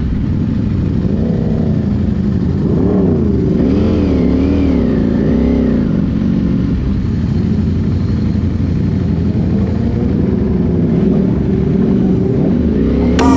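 Sport motorcycle engines rolling along in first gear at low speed, the note rising and falling as the throttle is rolled on and off. Music cuts in at the very end.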